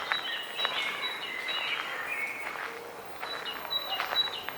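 Several small songbirds chirping and singing, one repeating a short high note again and again, with a few light clicks in between.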